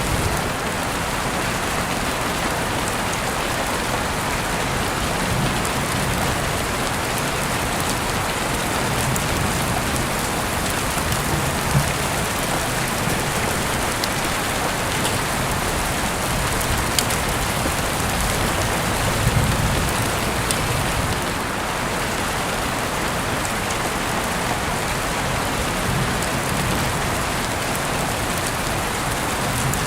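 Heavy rain falling steadily, an even hiss of many drops, with a few sharper single drop taps about twelve and seventeen seconds in.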